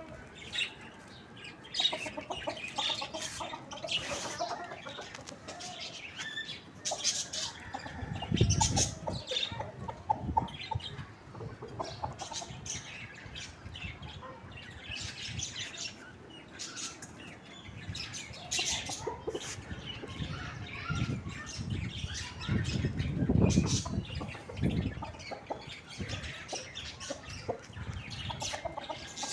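Chickens, a rooster and a hen, moving about on a roof: scattered short scratchy rustles and wing flaps, with a couple of dull low thumps, about a third of the way in and again later.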